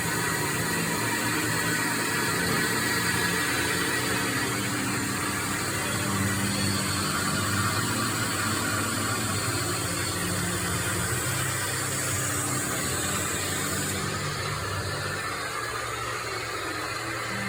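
Keg washing machine running: a steady machine hum with a continuous hiss over it, the highest part of the hiss dropping away about fourteen seconds in.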